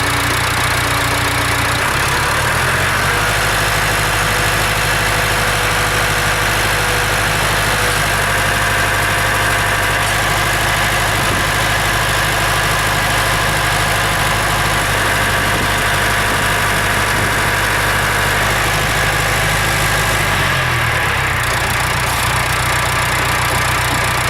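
Perkins diesel engine of a Landini tractor running just after a cold start. It idles, picks up speed about two to three seconds in and holds there, then drops back to idle near the end.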